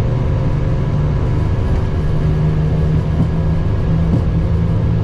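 Steady cockpit noise of an Airbus A321neo in its climb after takeoff: a loud, even low drone of engines and rushing air, with faint steady tones above it.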